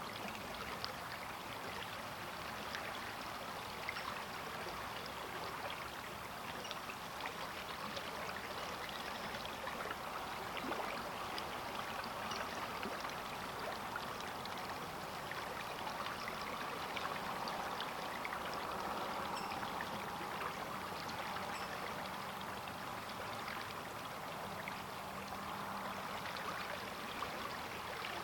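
A river flowing, a steady rush of water over riffles with many small splashes and trickles throughout.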